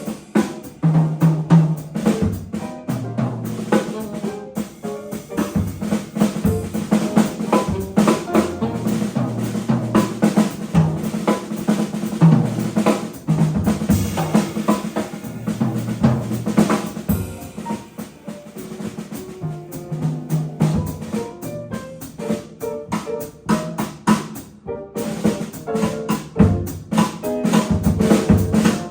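Jazz combo playing, with the drum kit to the fore: dense snare, bass drum and rimshot strokes, and bass notes moving underneath.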